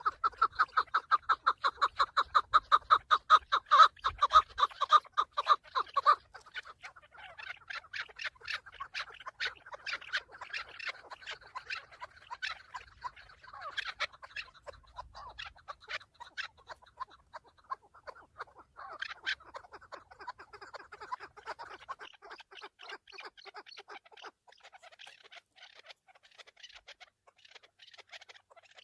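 Chukar partridge calling: a fast run of clucks, about five a second, loud for the first six seconds, then softer, more scattered clucking carries on.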